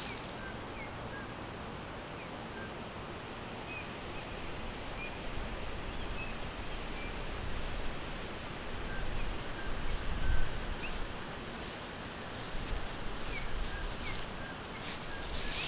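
Forest ambience: a steady rush of wind through leaves with faint, short bird chirps scattered throughout. The rush swells about ten seconds in, and a few crackling rustles come near the end.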